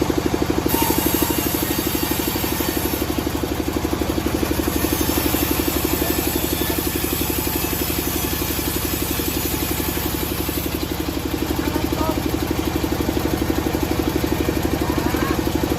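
A combustion engine running steadily with a fast, even throb.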